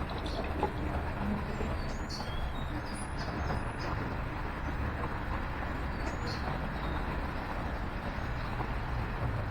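Small birds chirping in short, high notes, clustered about two to four seconds in and again near six seconds, over a steady background rumble of road traffic.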